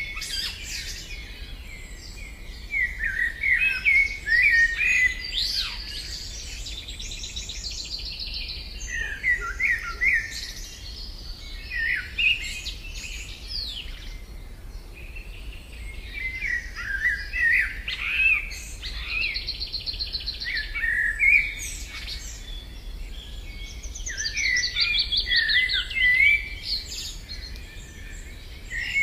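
Songbirds singing: phrases of quick chirping notes and fast trills, repeated every few seconds over a faint steady background.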